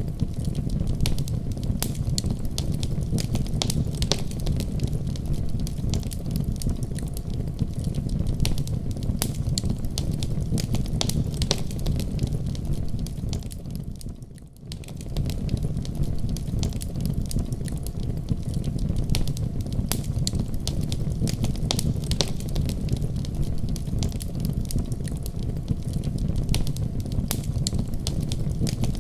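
Wood fire in a fireplace crackling, with frequent sharp pops over a steady low rumble of flames. Halfway through, the sound fades down briefly and comes straight back.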